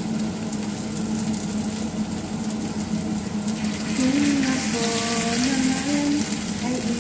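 Breaded tuna nuggets shallow-frying in hot oil in a pan: a steady crackling sizzle. A pitched tune joins over it about four seconds in.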